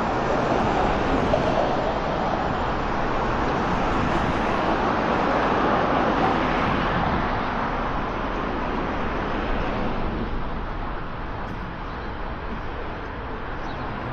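Steady road traffic noise from cars driving past on a busy city street, swelling through the first half and easing slightly after about eight seconds.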